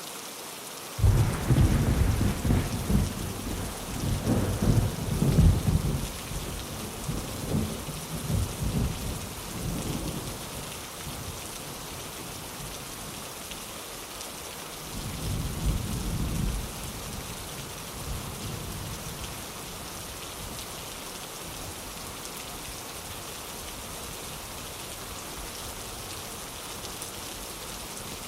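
Steady rain with thunder: a sudden loud clap about a second in that rolls and rumbles off over several seconds, then a second, weaker rumble around the middle.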